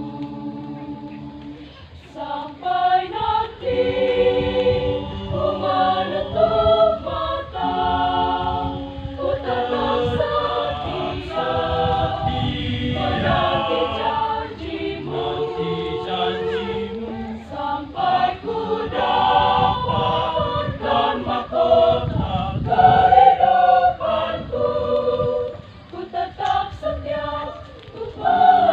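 Church choir singing a hymn in several voice parts, holding chords that change every second or so, with a brief drop in loudness shortly before the end.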